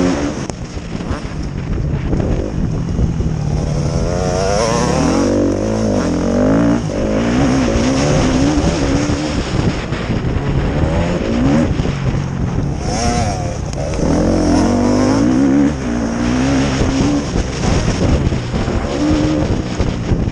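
Several motocross bikes racing, their engines revving up and down as they climb and fall through the gears, one louder near two-thirds of the way through as it comes close.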